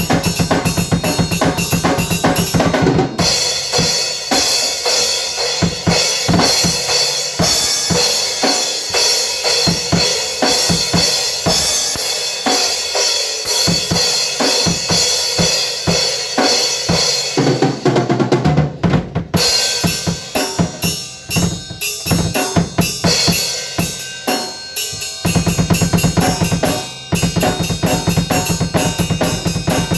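Drum kit played fast and busy: rapid drum hits under a constant wash of cymbals. A steady low tone sounds beneath the drums at the start, drops away about three seconds in and returns at about twenty-five seconds.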